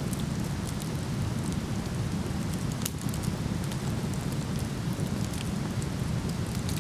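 Steady rush of a waterfall, with a wood fire crackling over it in scattered small pops and one sharper pop about three seconds in.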